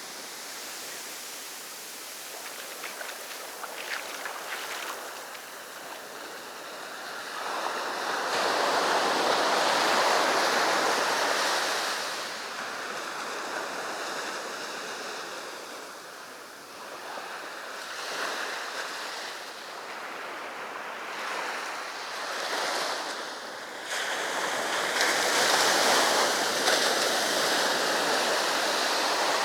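Sea waves breaking on a beach: a steady wash of surf that swells into two loud breakers, one about a quarter of the way in and another near the end.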